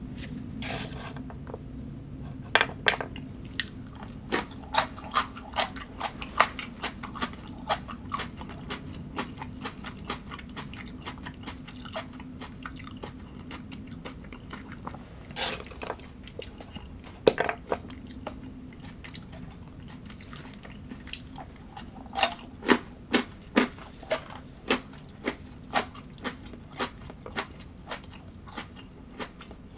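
A person chewing crunchy food close to the microphone, sharp crunches coming in runs of about two a second, over a steady low hum.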